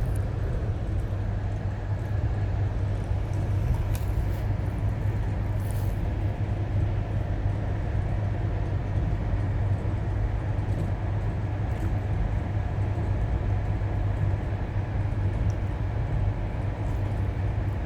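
Steady low rumble of a moving passenger train heard from inside the carriage, with a few faint clicks from the running gear.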